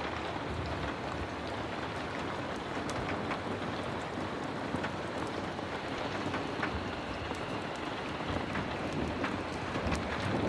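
Heavy rain falling steadily, a dense even hiss with scattered sharp clicks of drops or crackles through it.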